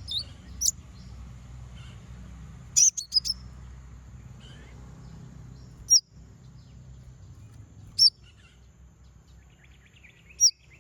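A kolibri ninja (konin) sunbird giving short, sharp, high chirps: a quick run of several about three seconds in, then single chirps every two seconds or so. It is a challenge call to a rival.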